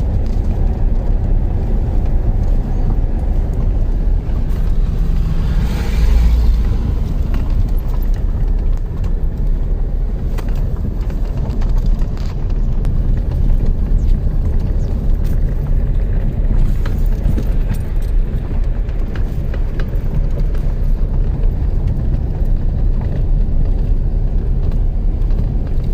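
Steady low road-and-engine rumble of a car driving, with a louder swell about six seconds in as an oncoming car goes past.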